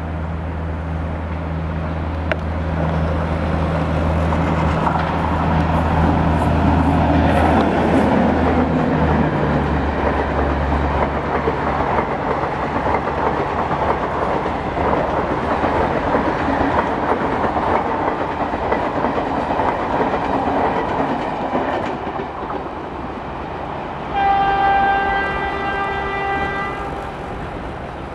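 WAP7 electric locomotive and Garib Rath coaches passing close by. A low steady hum comes first for about ten seconds, then the coach wheels rattle over the rail joints, and a train horn sounds one held note for about three seconds near the end.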